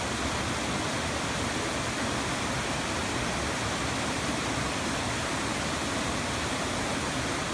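Stairway Falls' waterfall, a steady, even rush of falling water.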